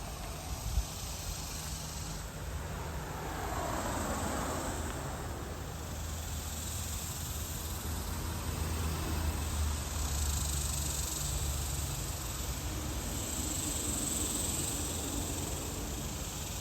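Steady outdoor ambience: a hiss with insects buzzing high over it and a low rumble underneath.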